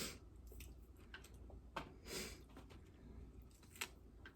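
Faint, scattered crisp crackles and soft clicks from a tostada and its toppings being handled and eaten at close range, with a brief rustle about two seconds in and a sharp tick near the end.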